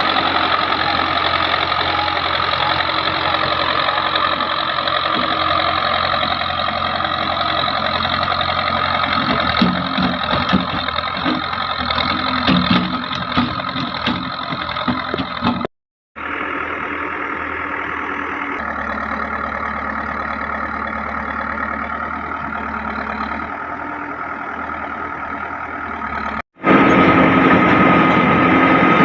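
Heavy machinery diesel engine running steadily, with a spell of clattering knocks a third of the way in. The sound cuts off abruptly twice for a moment, and the engine sound changes after each cut.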